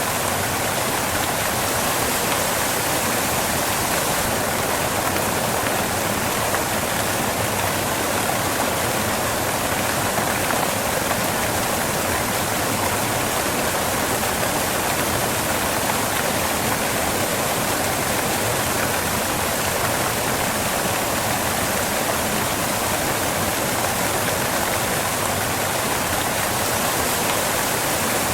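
Waterfall crashing onto rocks, a steady unbroken rush of falling water.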